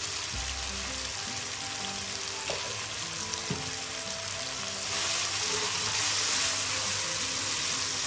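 Chili and shallot sambal frying in oil in a wok, a steady sizzle that grows a little louder about five seconds in, with a spatula stirring it near the end.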